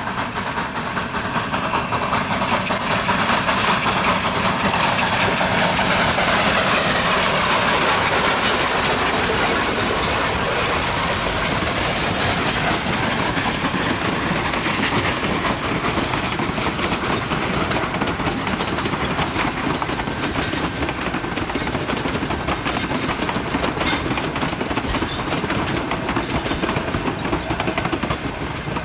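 Narrow-gauge steam train running by, a steady rumble of the train on the track that swells over the first few seconds, with the wheels clicking over rail joints, the clicks sharper in the later part.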